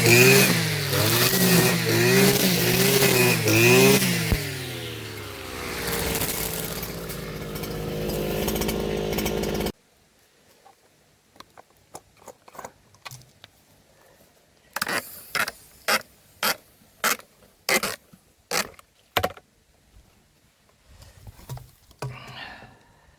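Small petrol garden-tool engine revving up and down in pulses about once a second, then slowing with falling pitch until it cuts off suddenly. A run of about ten sharp knocks follows, roughly half a second apart.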